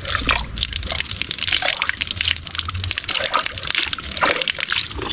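Water gushing and splashing in a rapid, irregular patter as mud is rinsed off rubber gumboots.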